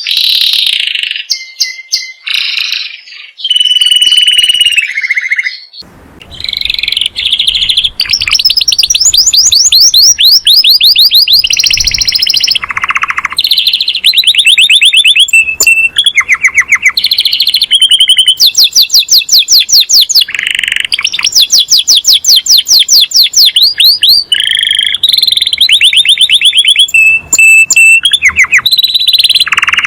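Canary singing loudly: short phrases and a held whistled note at first, then long runs of fast trills and rolling repeated notes, almost without pause from a few seconds in.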